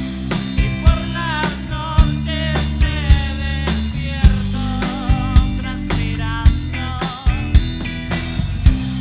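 A rock band playing: drum kit with regular sharp hits over a steady bass line, and a wavering lead melody on top.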